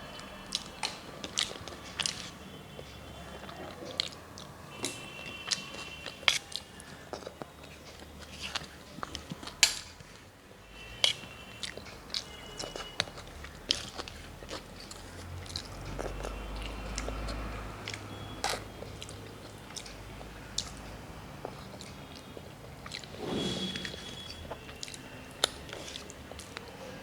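Close-up chewing and biting while eating a meal, with many short sharp crunches and wet mouth clicks scattered irregularly throughout.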